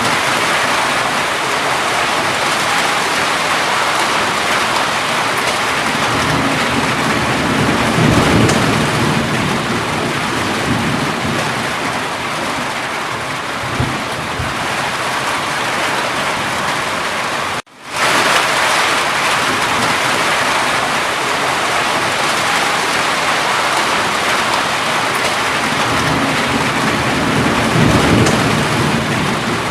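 Steady heavy rain with low rolls of thunder, one about a quarter of the way in and another near the end. The sound cuts out for an instant just past halfway, then the rain resumes.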